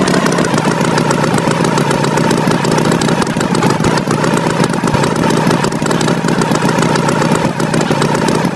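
Tractor engine sound effect running steadily at a constant speed.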